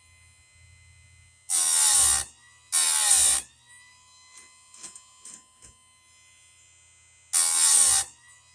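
Electric chainsaw-chain grinder: the spinning wheel gives a thin steady whine, broken by three short, loud grinding passes on the chain's cutter teeth, two close together early on and one near the end. The whine dips in pitch under each pass as the motor is loaded, then climbs back.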